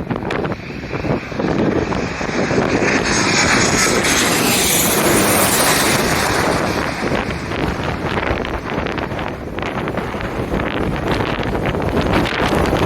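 Airliner passing low overhead on final approach. Its engine noise builds to a peak about four to six seconds in, then eases off, while strong gusty wind buffets the microphone throughout.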